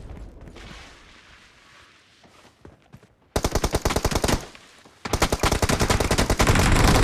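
Video-game automatic gunfire. Earlier noise fades away over the first few seconds, then a burst of rapid shots comes about three seconds in and stops after about a second, and a longer run of rapid fire starts about five seconds in.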